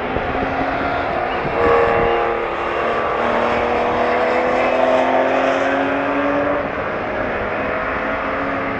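A racing car's engine pulling hard, its pitch climbing slowly for about five seconds as it accelerates, then dropping and getting a little quieter about two-thirds of the way through.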